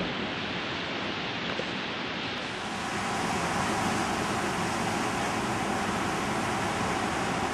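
Storm wind and pounding ocean surf making a steady rush of noise. It grows louder and brighter about two and a half seconds in.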